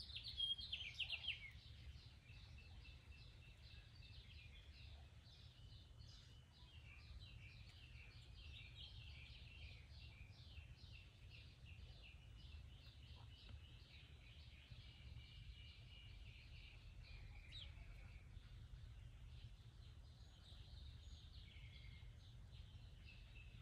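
Faint birdsong in the background: rapid high chirps and trills, a little louder in the first second or two, over a low steady rumble.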